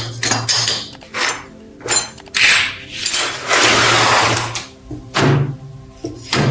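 Hand-tool work at the bench: a series of noisy scraping or rubbing strokes with a few sharp knocks, one longer stroke past the middle.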